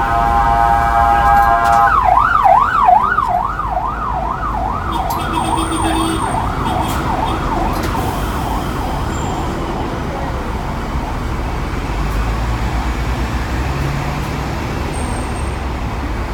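Emergency vehicle siren in city traffic: a steady tone that switches about two seconds in to a fast rising-and-falling yelp, about three sweeps a second, which fades away as the vehicle moves off. Low traffic rumble runs underneath.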